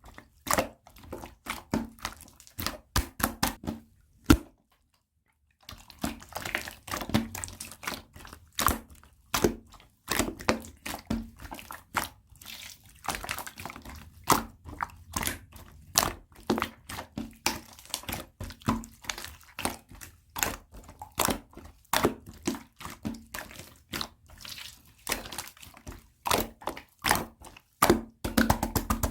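Clear slime squeezed and poked by hand, giving a dense run of sharp clicks and small wet pops, with a pause of about a second some four seconds in.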